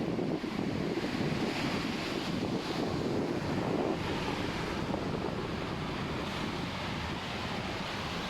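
Ocean surf washing onto the beach, with wind blowing on the microphone. The wash is a little louder in the first half and eases slightly after about four seconds.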